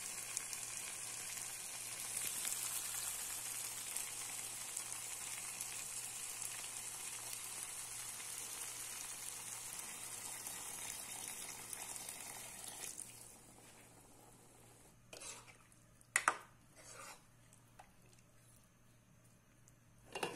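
Chicken frying in an onion-tomato masala in a non-stick pan, sizzling steadily. Water is poured in and the sizzle fades out about two-thirds of the way through, followed by a few brief knocks.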